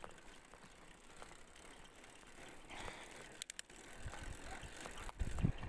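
Bicycle being ridden: faint tyre and drivetrain noise, with a few sharp clicks about three and a half seconds in and low rumbling from about four seconds on.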